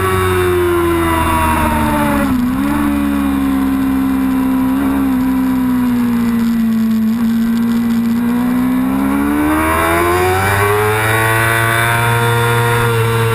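Yamaha R6 inline-four race engine heard onboard: the revs fall as the bike slows, with a quick blip about two seconds in, hold low for several seconds through the turn, then climb steadily as the bike accelerates away.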